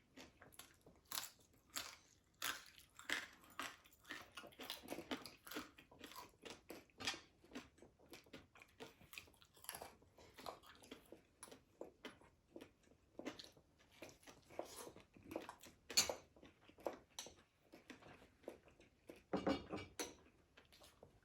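Close-up chewing and crunching of crispy fried food, in irregular bites and crackles throughout, with one sharper crunch about sixteen seconds in.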